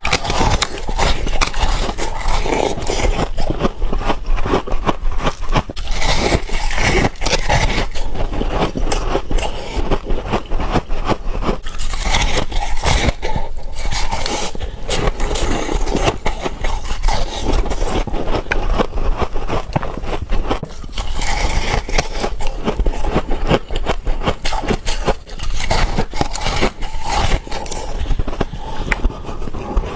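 Close-up biting and crunching of frost (coloured frost and humidifier frost): a loud, unbroken run of crunchy, crackling scrapes.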